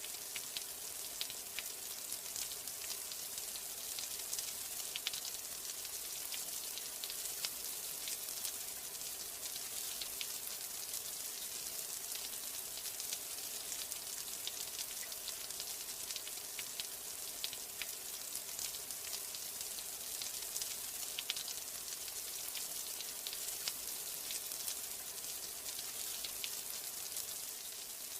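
Steady rain: a dense, even hiss of falling water scattered with many small drop ticks.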